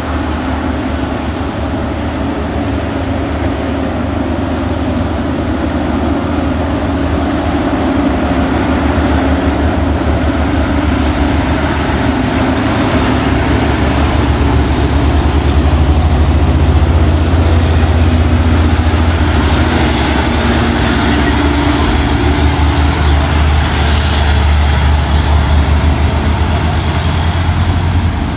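Heavy truck's diesel engine running with a deep, steady drone, getting a little louder about halfway through.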